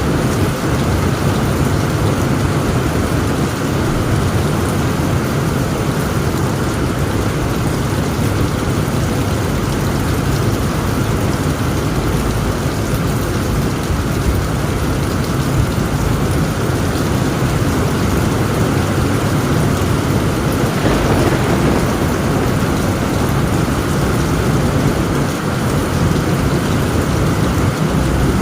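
Heavy rain falling steadily on a tent roof, with a continuous low rumble of thunder underneath.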